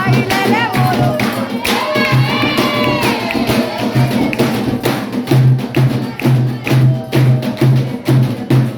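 Candomblé ritual music: atabaque hand drums beating a steady rhythm of about two strokes a second under sharp percussive strikes, with voices singing a chant in several phrases.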